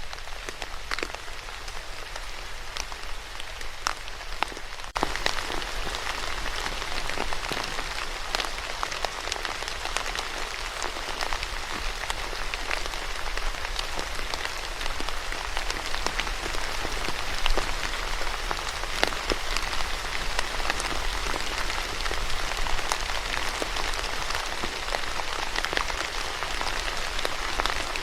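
Steady rain falling, with many individual drops striking sharply through the constant hiss. About five seconds in, the rain abruptly becomes louder and brighter.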